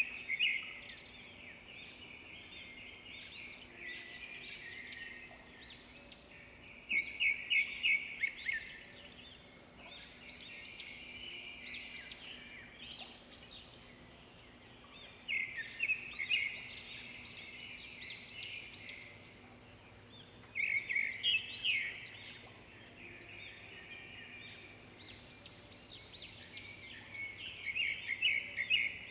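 Small songbirds chirping and twittering throughout, with louder bursts of quick repeated chirps every five to eight seconds.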